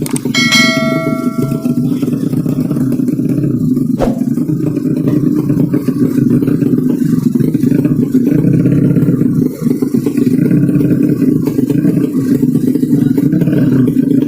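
Steady, loud low rumble from running racing motorcycles and the crowd around them. A brief horn-like tone sounds about half a second in, and a single sharp knock comes about four seconds in.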